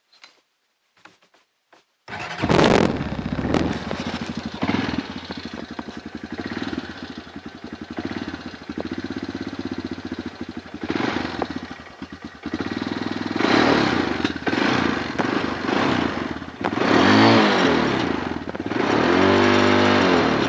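A cold 250 cc off-road engine catching abruptly about two seconds in after a few faint clicks, then running with several blips of the throttle that rise and fall in pitch, the biggest near the end; it doesn't like to keep running.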